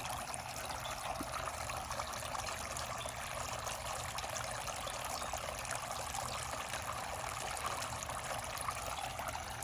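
Garden water fountain trickling and splashing steadily.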